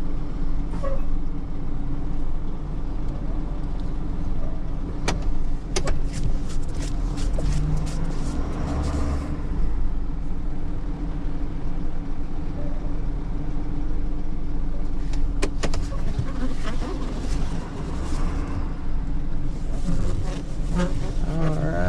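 A motor vehicle running, a steady low engine hum, with a few sharp clicks.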